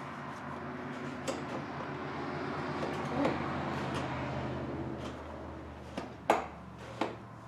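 Hand work on a lawn tractor's engine: a few light metal clicks and knocks, the two loudest about six and seven seconds in, over a steady low hum.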